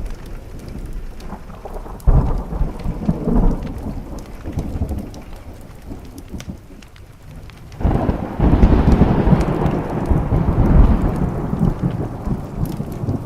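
Thunder rumbling over steady rain on a window: a shorter roll about two seconds in, then a louder, longer peal from about eight seconds that slowly dies away.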